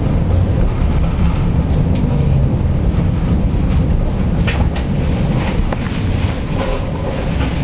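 Tram in motion: a steady low rumble of wheels and running gear on the rails, with a few sharp clicks and squeaks from about four and a half seconds in.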